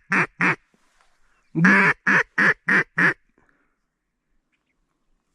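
Mallard duck call blown in a hen's quacking sequence: two short quacks, then a series of one long quack followed by four shorter, quicker quacks, each dropping in pitch.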